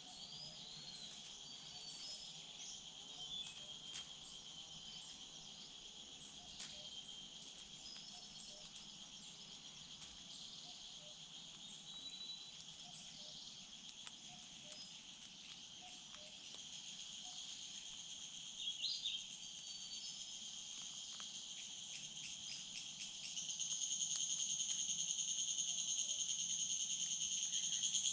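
A steady chorus of forest insects, a continuous high trilling that grows louder about 23 seconds in, with a few faint bird chirps and small clicks over it.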